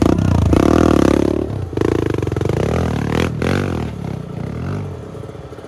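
Dirt bike engine revved hard in two long bursts, its pitch rising and falling, then easing back toward a low idle near the end.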